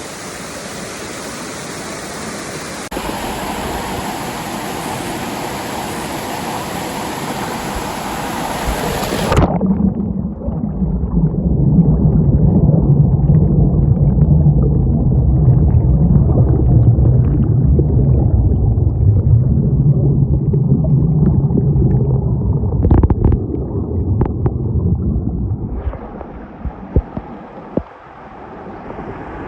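Waterfall rushing as a steady, even roar. About nine seconds in it changes abruptly to a loud, muffled low rumble with a few knocks, which lasts until near the end.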